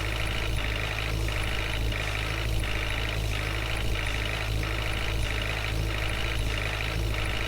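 Diesel engine of heavy farm or construction machinery running steadily, with a high-pitched sound over it that pulses evenly about one and a half times a second.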